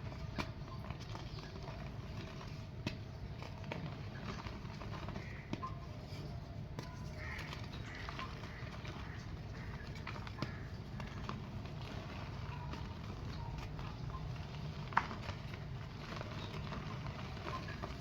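Dry clay pots crumbling, heard as sparse small cracks and gritty ticks over a steady low background hum, with one sharper crack near the end.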